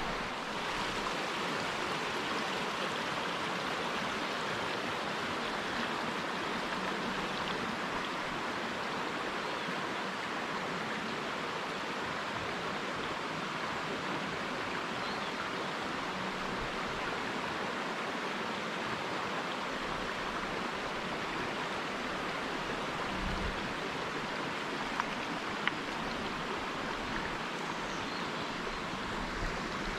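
The Kon River running: a steady, even rush of flowing stream water. Two brief ticks sound near the end.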